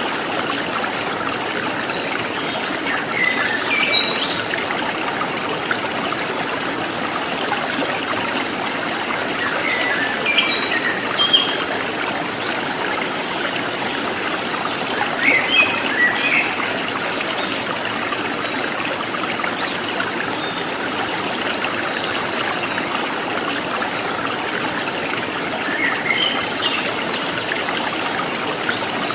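Forest stream trickling steadily, with wild birds giving short chirps a few times: a few seconds in, around ten seconds, around fifteen seconds and near the end.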